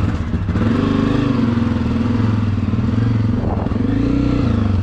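Dirt bike engine running just after being started, idling with its pitch rising and falling slightly a couple of times.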